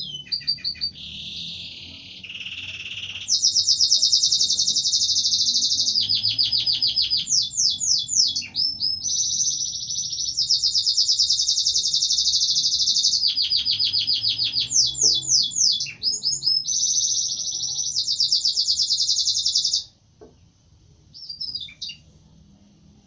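Domestic canary singing a long, loud song of rapid rolling trills and chirping phrases. It stops abruptly about 20 seconds in, and a brief chirp follows near the end.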